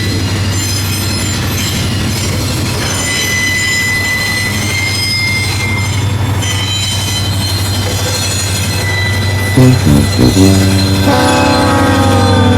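Sugarcane train rolling by, with high wheel squeal over a steady low diesel drone. Near the end the locomotive's horn sounds a couple of short toots, then a long chord that drops in pitch as it passes.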